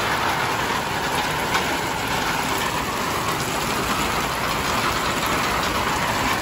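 Heavy downpour: a steady hiss of rain falling on grass and paving stones.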